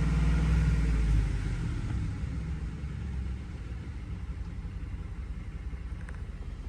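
2004 Ford F-150's 5.4-litre V8 coming down from a brief rev, its speed falling over the first second or two, then running at idle. The engine is shaking and losing power from a misfire on cylinder 8.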